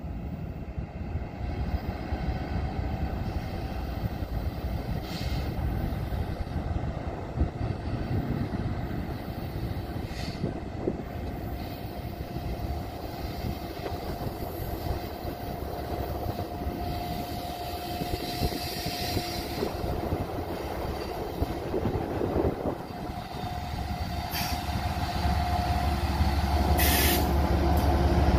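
BNSF freight train of diesel locomotives hauling tank cars, running round a curve with a steady rumble and a thin steady whine, growing louder over the last few seconds as the locomotives pass close by.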